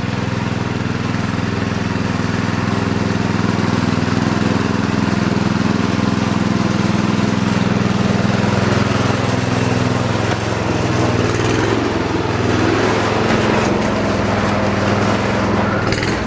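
Small engine running steadily, its note shifting and turning rougher after about ten seconds.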